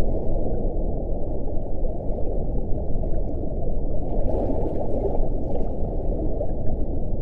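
Wind blowing steadily as a deep, muffled rush, with a brief faint rise of higher hiss about four seconds in.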